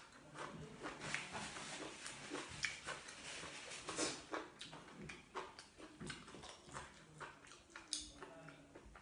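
Close mouth sounds of chewing a mouthful of raw green vegetable: a run of wet, crunchy clicks several times a second. Near the end a plastic water bottle crackles as it is picked up.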